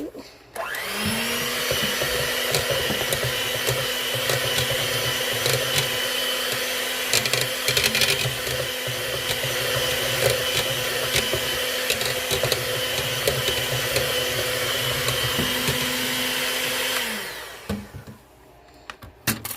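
Electric mixer beating an egg into whipped butter for a pound cake batter. The motor runs at a steady speed with light clicks from the beaters, then winds down and stops about three seconds before the end.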